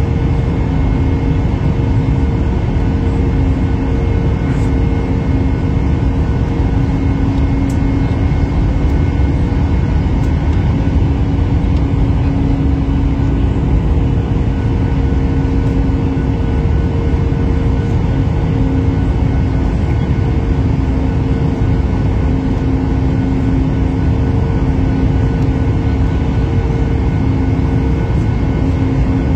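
Airliner cabin noise: a loud, steady drone of engines and airflow with a constant hum in it, holding level without rising or falling.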